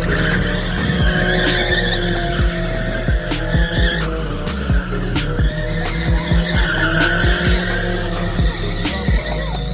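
Car tyres squealing in a long sustained slide during a drift, the squeal wavering in pitch, with the car's engine running under it. Music with a steady beat plays along.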